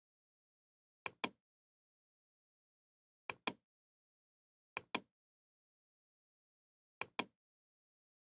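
Four pairs of short, sharp clicks, each pair a quick double click, spaced irregularly about two seconds apart, with dead silence between.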